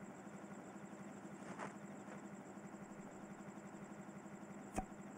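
Faint small motor scooter engine idling, a steady low hum with a light regular pulse, and one sharp click near the end.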